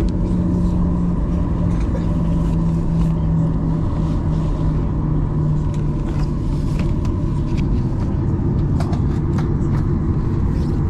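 Cabin noise of a Boeing 737-800 on the ground before takeoff: a steady rumble from the idling CFM56-7B engines, with a low hum that slowly drops in pitch. A few faint ticks come near the end.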